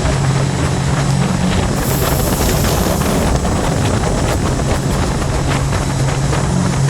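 A Scarab 165 ID jet boat's Rotax 1503 4-TEC three-cylinder engine running with a steady drone, with wind buffeting the microphone. A brief high hiss comes about two seconds in.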